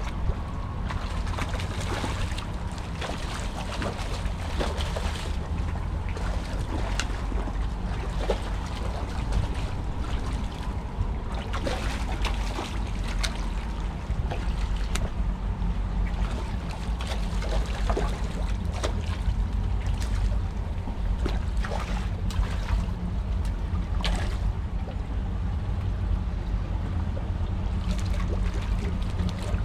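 Water lapping and trickling against a fishing kayak's hull, with wind rumbling on the microphone and scattered light knocks and clicks.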